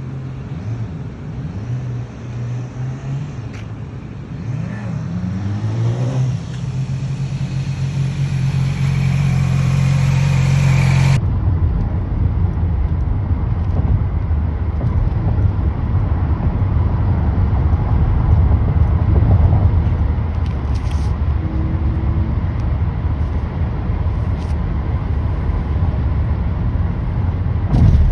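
Motorcycle engine running, its pitch rising and falling a few times as it accelerates. About eleven seconds in the sound changes abruptly to a heavy low wind rumble on the microphone at riding speed.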